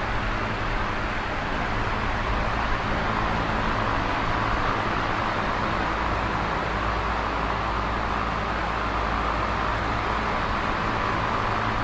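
Electric fan running steadily: a low, even hum under a constant rush of air, with no change in speed.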